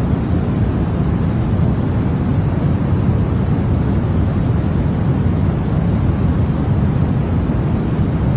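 Continuous white noise played as a sleep aid for babies: an even, deep rush with most of its weight in the low end and no changes.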